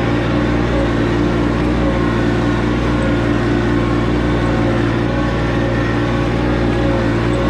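Tractor engine running steadily at a constant speed, its pitch unchanging.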